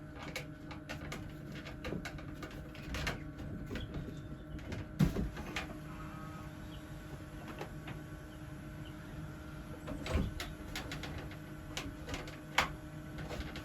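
Steady hum of a running egg incubator, with scattered light knocks and clicks as quail eggs are set into it by hand. The louder knocks come about five, ten and twelve and a half seconds in.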